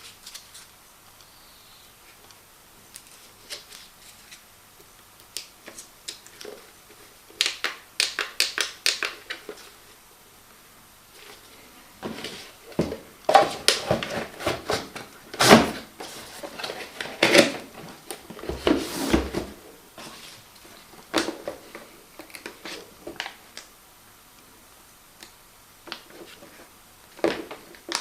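Unboxing handling noises: packaging and plastic parts being moved about, giving irregular clicks, knocks and rustling. There is a quick run of clicks a third of the way in, and a louder, busier stretch of rustling and knocking around the middle.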